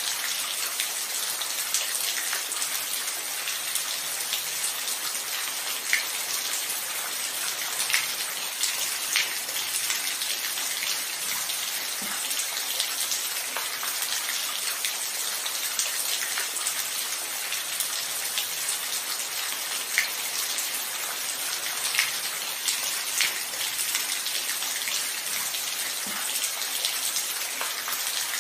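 Steady rain falling, an even hiss, with scattered nearby drops landing as sharp ticks every second or two.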